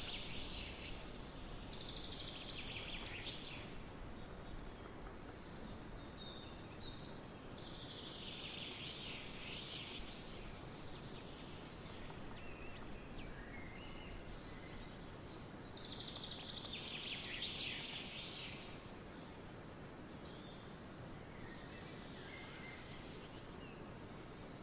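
Wild songbirds singing outdoors over a steady background hiss. One bird gives a similar song phrase about 2 seconds long three times, roughly every seven seconds, with fainter chirps from other birds in between.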